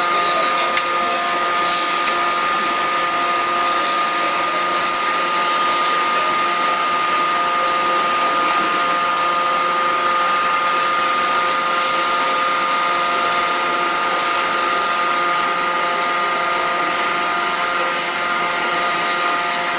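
Industrial machinery in a forging shop running steadily: an even mechanical noise with a constant whine and lower hum tones, and a few faint clicks now and then.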